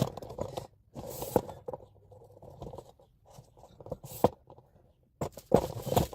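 Intermittent handling noises: scraping and clicking as objects are moved about, with a sharp tap about four seconds in and louder scrapes near the end.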